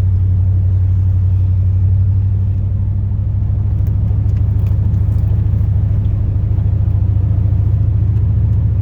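2002 Chevrolet Silverado plow truck's 8.1-litre big-block V8 gas engine running under way, a steady low drone with a slight dip in level about three seconds in.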